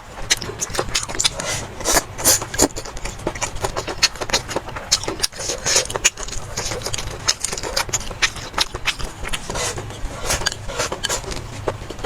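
Close-up eating sounds: rapid, irregular chewing and mouth smacks with sharp clicks, over a steady low hum.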